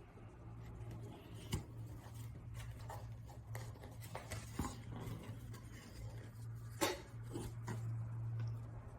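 Faint handling noise, light rustling and a few soft clicks, over a steady low hum.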